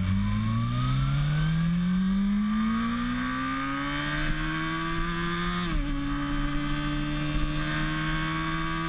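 Motorcycle engine accelerating, its note climbing steadily for several seconds, then dropping a step about halfway through at a gear change and holding steady.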